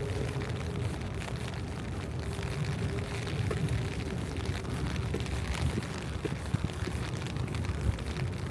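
Rainy city street ambience: a steady low rumble of traffic, with a faint steady hum and scattered small ticks.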